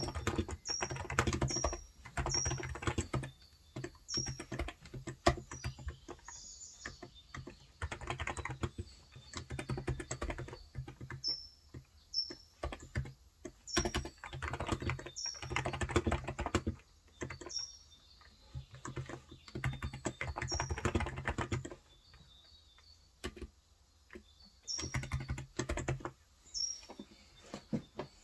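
Typing in bursts on a Cox Endeavor contactless (electrostatic capacitive) tenkeyless keyboard with 35 g switches, pausing now and then. A bird gives short, repeated high chirps in the background.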